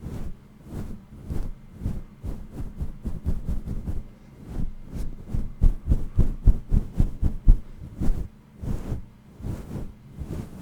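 Fast ASMR tapping on an object: a run of quick, dull taps that come fastest and hardest about halfway through, then slow to scattered taps.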